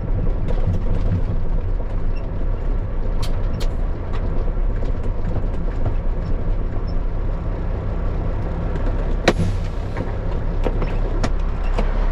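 Dump truck's diesel engine running low and steady, heard from inside the cab, with scattered light clicks and one sharper click about nine seconds in.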